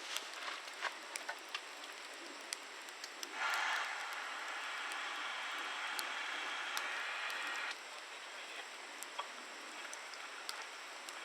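Campfire wood crackling with scattered sharp pops. A steady hiss starts suddenly about three and a half seconds in and cuts off about four seconds later.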